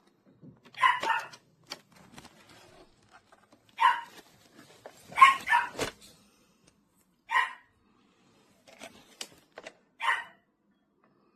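A dog barking in short single and doubled barks, about seven in all, spaced irregularly.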